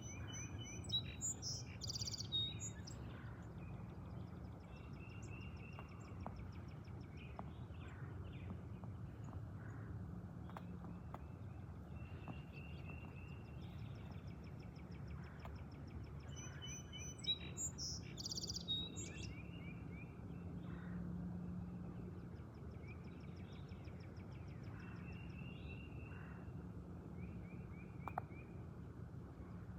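Small songbirds chirping and singing in repeated short phrases over a steady low background rumble. Louder, busier bursts of calls come about a second in and again a little past halfway.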